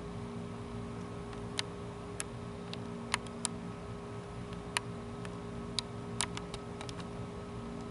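About a dozen sharp clicks at irregular intervals over a steady, even hum.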